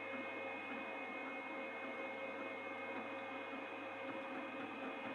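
Two Trees Sapphire Plus CoreXY 3D printer printing at 200% speed, its motors whining in steady high tones over a busy mechanical hum.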